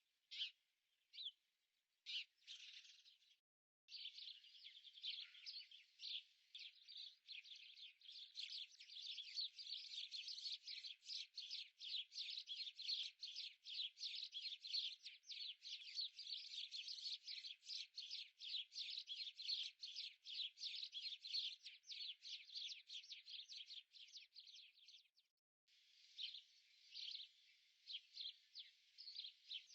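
Faint birdsong of small birds chirping. A few separate chirps come first, then a dense, fast run of chirps from about four seconds in, which breaks off briefly near the end and starts again.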